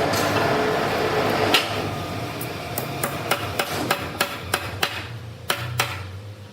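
Machinery running with a steady hum and noise, then a run of sharp knocks, about three a second, from about two seconds in.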